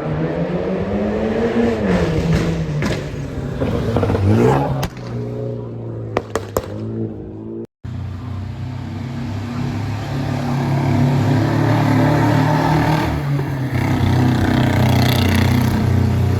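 Car engine being revved, its pitch rising and falling, with a sharp rev about four and a half seconds in and a few sharp cracks soon after. After a brief break the engine runs on steadily and builds toward the end.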